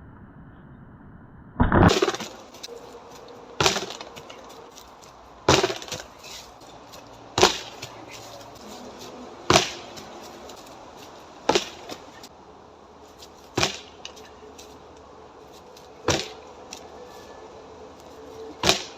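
Karate strikes landing on a dead tree trunk: nine sharp wooden knocks, about one every two seconds.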